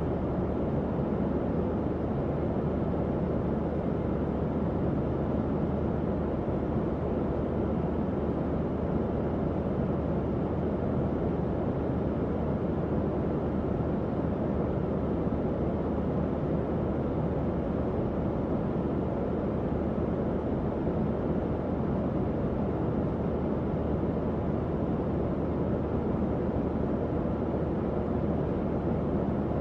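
Tower fan running steadily: an even, low-pitched rushing of air with a faint hum underneath and no change in level.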